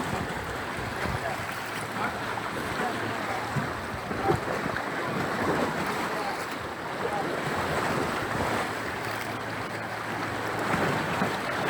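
Sea waves washing at the shore, with wind buffeting the microphone, and faint voices in the background.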